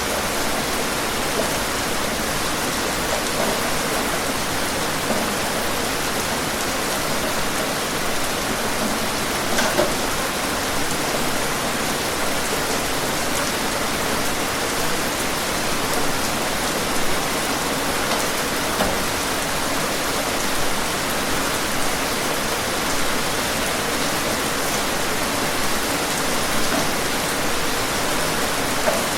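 Steady heavy rain: an even hiss of falling rain with a few slightly louder spatters, the clearest about a third of the way in.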